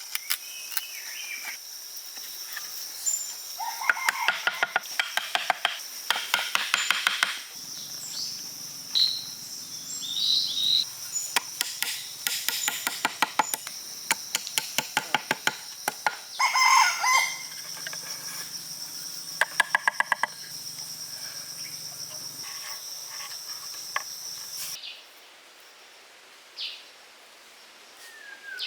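Birds chirping and calling over a steady high insect-like drone that stops about three-quarters of the way through, with repeated quick runs of sharp clicks or taps.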